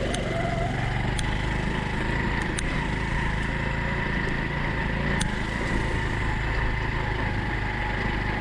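Small single-cylinder four-stroke engine of a Honda Cub motorcycle running steadily at low, even revs, with a few light ticks.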